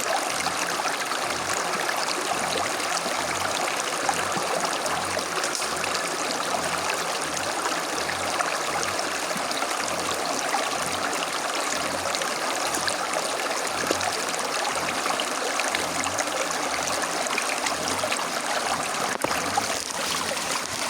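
Small stream running over stones, a steady rush of water with a trickle.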